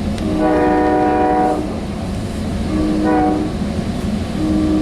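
Train horn on a Sounder commuter train locomotive sounding three blasts: a long one, a shorter one about three seconds in, and a third starting near the end. The horn sounds over the steady rumble of the train standing at the platform.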